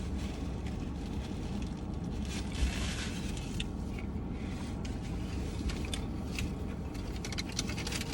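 Steady low hum inside a parked car, with small scattered clicks and rustles of people eating fast food from paper wrappers.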